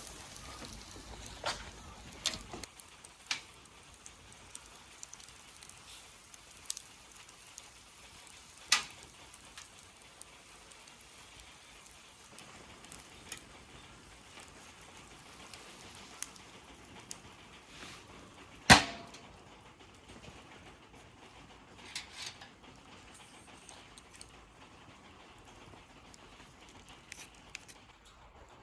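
Scattered sharp clicks and knocks at irregular intervals. The loudest comes a little past the middle, with a strong one earlier and a close pair after it.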